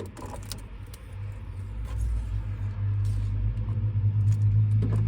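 Low engine rumble of a motor vehicle, growing louder after about a second and a half and then holding steady, with a few faint clicks at the start.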